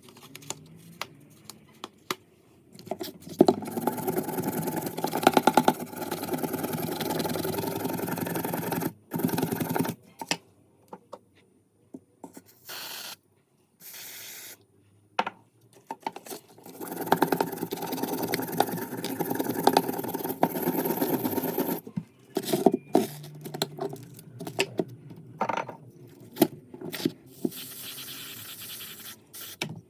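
A small motor-driven tool scraping against metal parts, such as in rust removal, in two steady spells of about six seconds each, with short clicks and knocks of handling between them.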